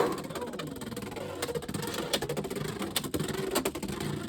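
Beyblade X tops, Unicorn Sting and Wizard Arrow, spinning in a plastic stadium: a faint steady whir with scattered sharp clacks as the tops strike each other and the stadium wall.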